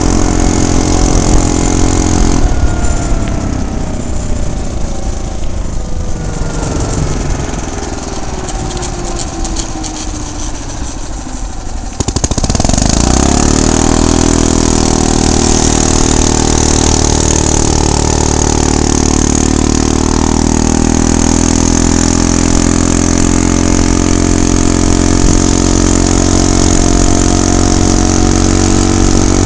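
Small gasoline engine of a motorized bicycle running under way. About two seconds in the revs fall away and the sound drops for several seconds as it eases off; about twelve seconds in the throttle opens, the pitch rises sharply, and the engine settles into a steady, louder run at high revs.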